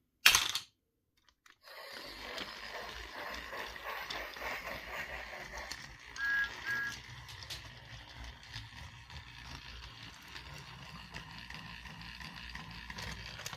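Small battery-powered motor of a toy talking train engine running steadily along plastic track after a sharp click, with two short high tones, like a toy whistle, about six seconds in.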